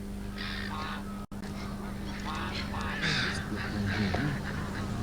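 Birds calling on the documentary soundtrack: a series of short, repeated cries over a steady low hum, broken by a split-second dropout a little over a second in.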